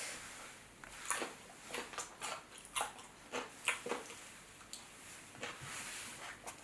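Crab legs from a seafood boil being eaten: about a dozen sharp, irregular cracks and clicks of shell being broken and bitten.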